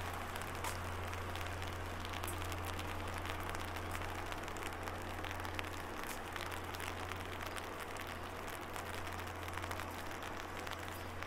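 Light rain pattering on an umbrella overhead, many small irregular drop taps over a steady wash, with a steady low hum underneath.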